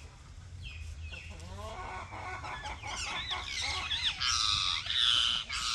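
Several birds calling at once: overlapping harsh, pitched calls that start about a second and a half in and grow steadily louder.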